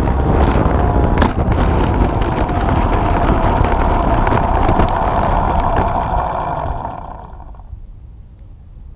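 Electric RC airplane's motor and propeller running with wind rushing past the onboard camera, with a few sharp rattles early on; the motor throttles down about six and a half seconds in, leaving a quieter rush of air.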